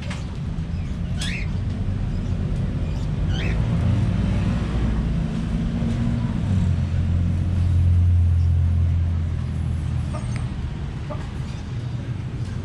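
A road vehicle's engine rumbling low, swelling to its loudest about eight seconds in and then fading as it passes. Two short chirps from budgerigars come about one and three and a half seconds in.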